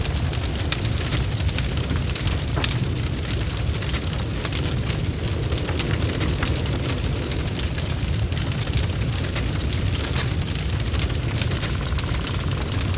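Bonfire crackling: dense, irregular sharp pops and snaps of burning wood over a low, steady rumble of the flames.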